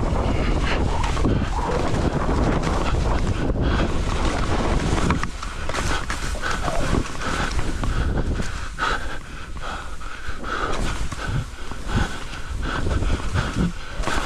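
Wind buffeting the microphone, with hard, rhythmic panting underneath.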